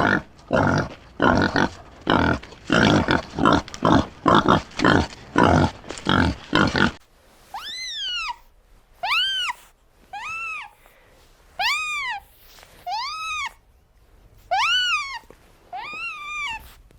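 Animal calls in two parts. For about seven seconds there are rough, noisy calls roughly twice a second. Then a different call takes over: seven high, clear calls, each under a second long, that rise and fall in pitch.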